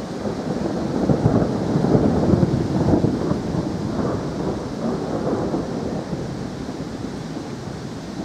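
A long roll of thunder that builds over the first two seconds and then slowly dies away, over a steady hiss of rain.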